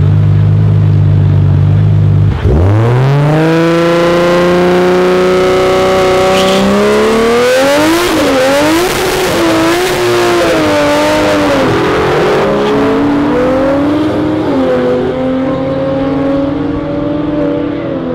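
A drag-racing car launching: the engine holds a steady low note, then about two seconds in it launches and the engine pitch climbs hard. The pitch dips several times at gear changes, then holds high and fades slightly near the end.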